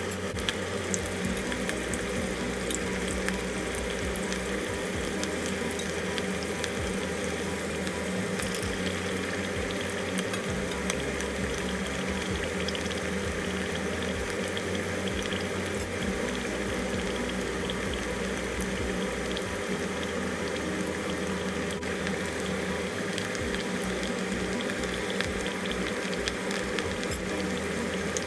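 Small whole potatoes deep-frying in hot oil in a steel pot: a steady, dense sizzle full of fine crackling, over a steady low hum.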